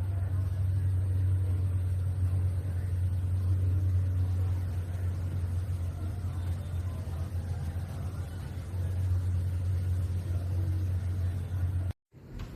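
A steady, loud, deep rumble that cuts off abruptly near the end.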